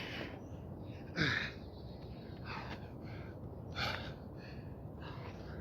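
A man breathing hard and gasping from exertion during burpees, with a sharp breath about every second and a quarter. The loudest come about a second in, a voiced gasp falling in pitch, and again near the four-second mark.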